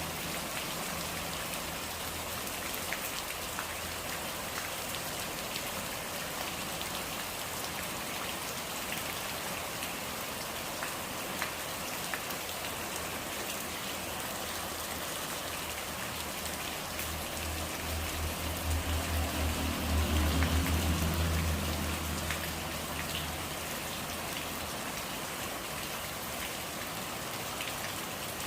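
Steady rain falling, with a dense patter of drops. Past the middle a deep low rumble swells up, peaks and fades away over several seconds.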